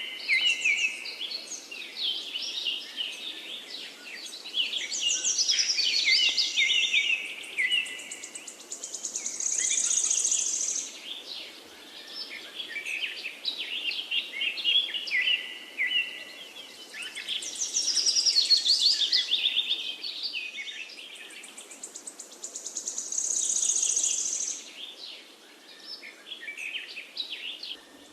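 Several songbirds singing at once, a dense chorus of chirps and quick trills, some high and buzzy, over a faint steady background noise.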